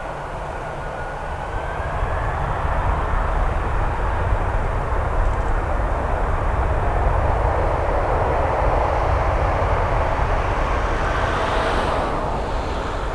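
Jet engines of a departing Boeing 767-300 at high power, a loud steady roar that builds over the first couple of seconds. Near the end a whine rises and falls away as the aircraft passes and the noise begins to fade.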